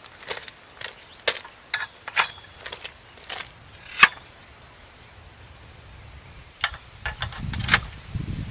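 Sharp clicks and knocks of a pavilion tent's frame parts being handled and fitted together, about a dozen irregular strikes with the loudest about four seconds in, and a low rumble of handling near the end.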